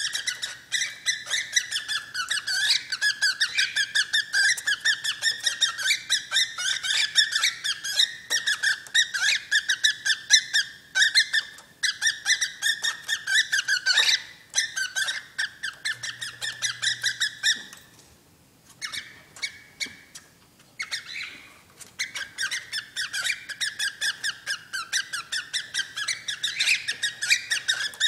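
Pet bird making a rapid, unbroken run of short squeaky chirps, many a second, with a brief pause about eighteen seconds in. The owner calls it a fit after the hen laid an egg, and says the bird makes it without opening its beak.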